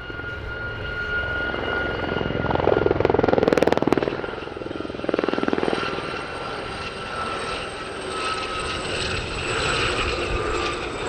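Aérospatiale Gazelle helicopters flying past in display formation: turbine and Fenestron tail-fan whine over fast rotor chop, the whine sinking slightly in pitch. It swells loudest about three seconds in and again around five seconds in.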